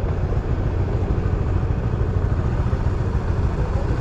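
Small motorcycle engine running steadily at low speed, a constant low hum.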